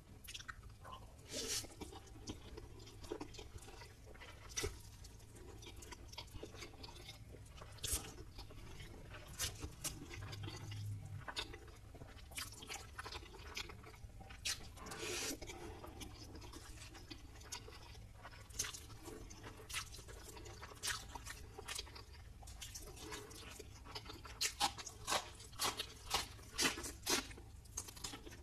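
Close-miked chewing and crunching of fried chicken masala lollipops, in irregular bites, with a run of louder, sharper crunches near the end.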